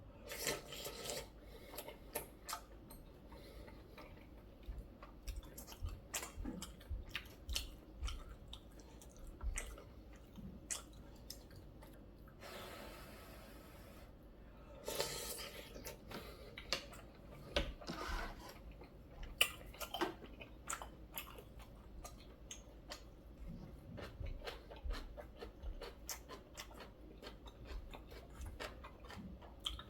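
Close-miked eating sounds of a man chewing noodle soup with sujebi dough and kimchi: many small wet clicks and smacks, with a couple of longer noisy stretches midway.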